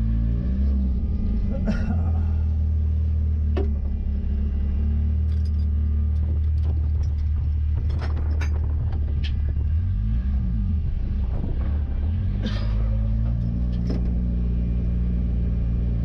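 Ford 2.3-litre turbo four-cylinder engine running steadily at low revs, its pitch dipping and rising briefly about ten seconds in, with scattered light clicks.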